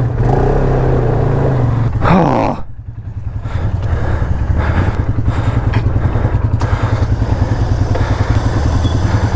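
ATV engine running, with a short rev about two seconds in, then settling into a steady, pulsing idle.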